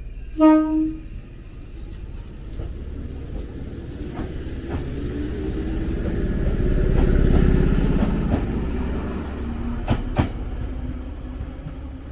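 Electric train running on the line: a steady low rumble that swells to its loudest in the second half and then eases off. A short pitched tone, like a horn, sounds about half a second in. Two sharp clicks come near the end.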